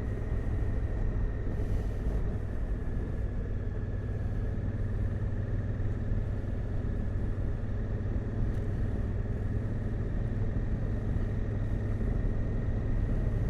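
Adventure motorcycle being ridden at a steady cruise: an even low engine drone with wind and road noise, and a thin high whine over it.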